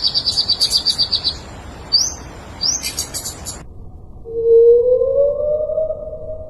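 A songbird singing: a fast high trill of about ten notes a second, then sharp upswept chirps, cut off abruptly about three and a half seconds in. It is followed by a low, drawn-out tone that rises slowly in pitch.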